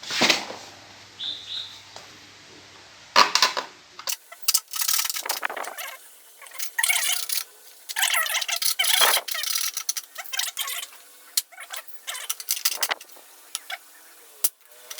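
Saw cutting through a plastic motorbike body-panel mounting tab, in runs of irregular back-and-forth strokes starting about four seconds in, after a couple of knocks. The tab is being trimmed because it sits too shallow for the aftermarket panel to fit.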